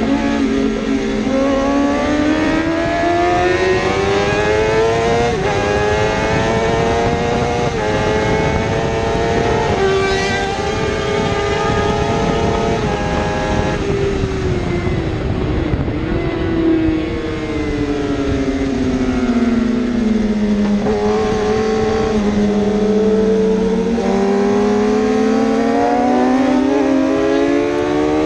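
A 1000cc superbike engine at racing revs, climbing in pitch with quick upshifts that drop the note in steps several times. Around the middle it falls away slowly as the bike slows, then revs climb again near the end as it accelerates.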